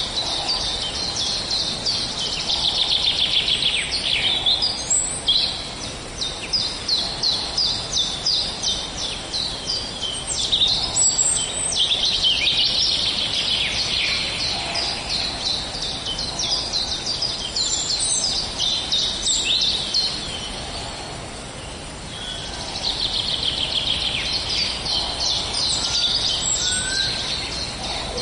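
Small songbirds chirping and trilling together in a morning chorus, with fast runs of repeated high notes; the singing eases briefly about three quarters of the way through, then picks up again.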